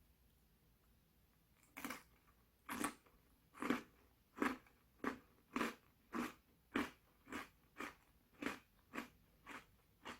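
A person chewing a mouthful of lemon cream tart with a crisp pastry shell, mouth close to the microphone. The chewing starts about two seconds in and goes on in an even rhythm, a bit under two chews a second.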